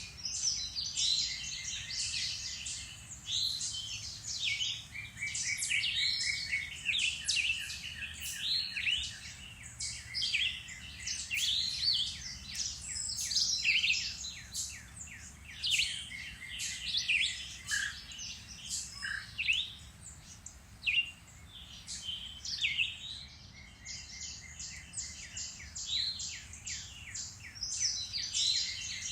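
Woodland songbirds in a dense spring chorus: many overlapping chirps, quick whistled sweeps and rapid trills from several birds at once, with no pause.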